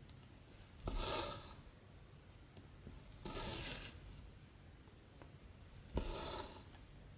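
Cotton embroidery thread being pulled through 14-count cross-stitch fabric, three pulls of about half a second each, a little over two seconds apart.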